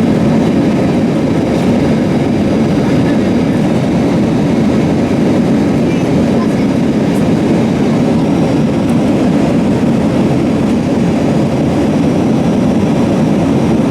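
Steady roar of engine and airflow noise heard inside an Airbus A320 cabin, even and unbroken.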